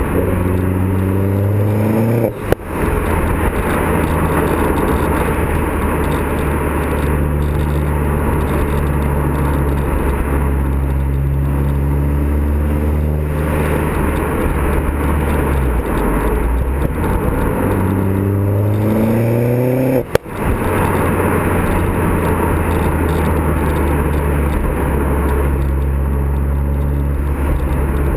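Vauxhall Zafira VXR's turbocharged four-cylinder engine through a custom exhaust, driving under acceleration. The revs climb twice, each time breaking off sharply with a gear change, and between and after the climbs the exhaust holds a steady low drone.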